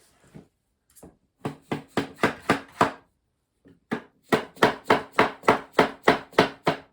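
Rapid knocking on a compressed-wood subfloor tile as it is tapped into place: a quick run of about six knocks, a short pause, then about ten more, roughly four a second.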